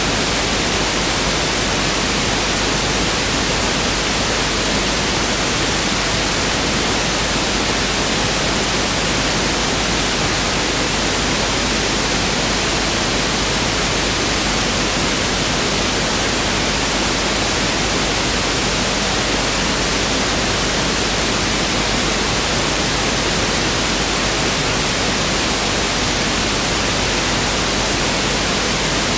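Pink noise (1/f noise) test signal: a steady, even hiss spread across the whole frequency range, constant throughout.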